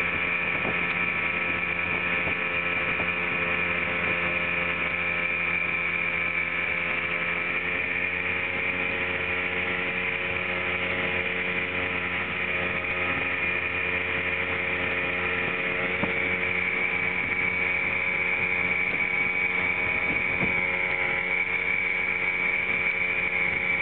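Motorboat engine running steadily under way, a constant drone with a high whine on top.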